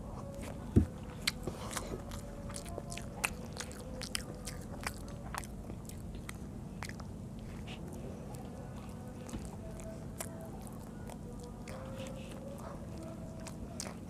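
A child chewing soft steamed rice cake (bhapa pitha), with many short wet mouth clicks and smacks. One loud thump about a second in, as the plastic cup is set down on the table.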